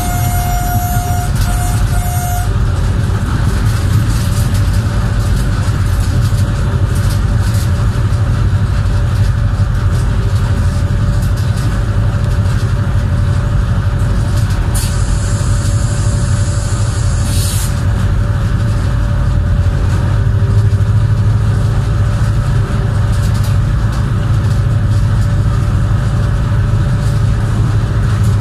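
Pakistan Railways locomotive running at speed along the track: a steady low engine rumble mixed with wheel and rail noise and wind. A short high tone sounds three times in quick succession at the start, and a burst of high hiss comes about halfway through.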